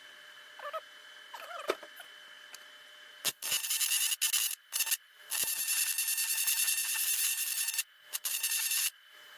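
Welding arc on a cast iron engine block, hissing and crackling in stretches of a second or two that start about three seconds in and break off several times. Before it, a dog whimpers a few times.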